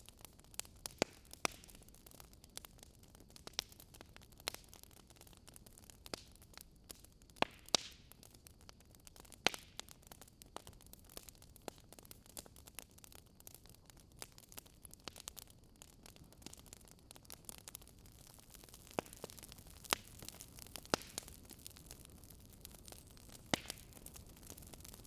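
Wood fire crackling: a soft steady hiss of burning with scattered sharp, irregular pops and snaps, a few louder than the rest.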